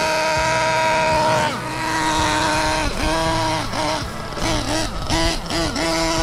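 Force R32 nitro engine in a 1/8-scale RC monster truck running at high revs during break-in. The pitch holds steady for over a second, then repeatedly drops and climbs back as the throttle is eased off and reapplied, more often near the end.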